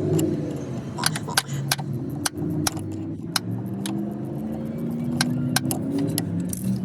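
Irregular sharp metallic clicks and clinks of hand tools and a loosened starter motor being worked free from under a car, about ten in all. Beneath them runs a steady low engine hum whose pitch slowly glides.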